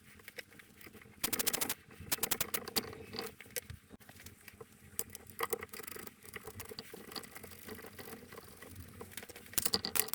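Worm-drive hose clamp being fitted and tightened around a cracked drill press casting to hold the crack closed: quick runs of small metallic clicks and scratchy ticks, densest about a second in and again near the end.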